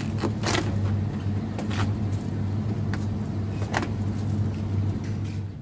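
Car driving, heard from inside the cabin: a steady low engine and road hum under even tyre noise, with a few short knocks and rattles.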